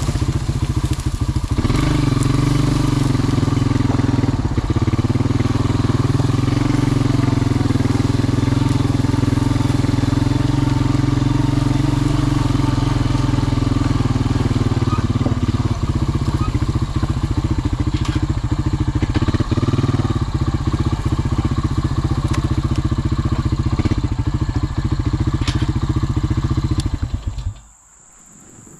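Vehicle engine running steadily, then shut off abruptly near the end, leaving faint insects buzzing.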